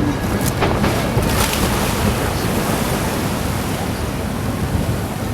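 Fireworks display: a few sharp bangs in the first second and a half, then a dense, continuous rumble and crackle of overlapping bursts.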